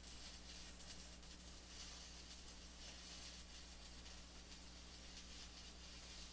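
Near silence: a faint steady low hum with light hiss and crackle, the recording's background noise.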